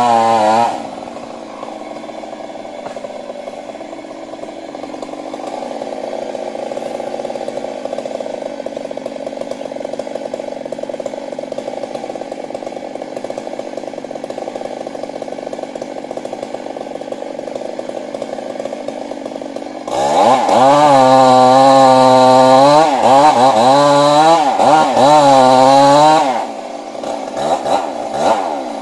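Stihl MS 382 two-stroke chainsaw idling for most of the stretch after a brief rev at the start. About two-thirds of the way through it is run at high throttle for about six seconds, its pitch dipping and recovering several times, then drops back to idle with a few short blips of throttle near the end.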